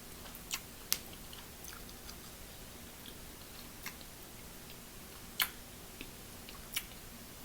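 Faint close-up chewing while eating seafood, with a few sharp clicks scattered through it, the loudest about a second in and about five and a half seconds in.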